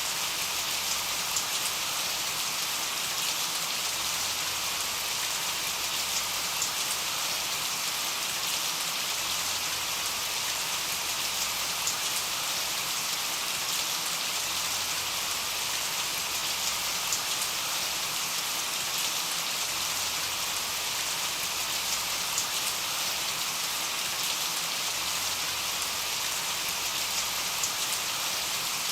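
Steady rain falling, an even hiss with scattered small drop ticks, as if on a window.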